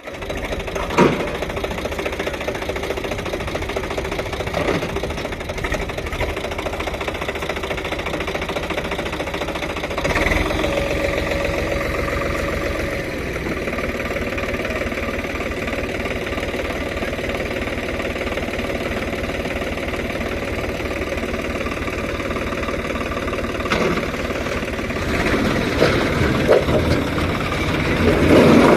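Tractor's diesel engine running with a steady knocking chug. It grows louder about ten seconds in and again near the end, with a few sharp knocks along the way.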